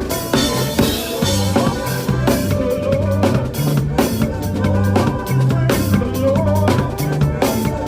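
Makossa-style praise music with a drum kit playing a busy groove of bass drum, snare and rimshots over a moving bass line.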